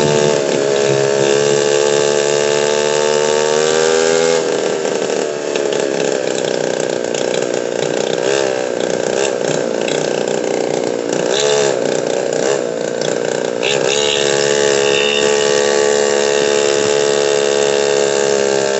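Motorcycle engine running while riding. Its note rises slowly for about four seconds, then drops and wavers, and settles into a steady, slowly rising note again over the last few seconds.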